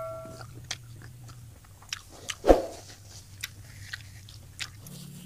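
Close-miked eating of fried tilapia: scattered small clicks and wet mouth sounds of chewing, with one louder bite about two and a half seconds in.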